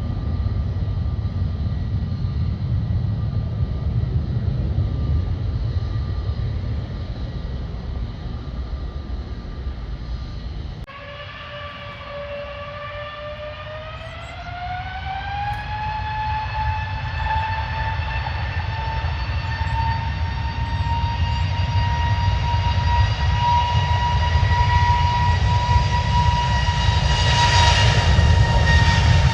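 Airliner jet engines: a low rumble with a steady tone, then after an abrupt cut about eleven seconds in, an engine whine that rises in pitch, settles high and grows steadily louder, as when the engines spool up.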